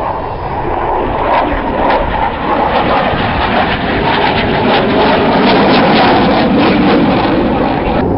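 Display aircraft engine noise, loud and continuous, swelling slightly past the middle, with a rough crackle running through it.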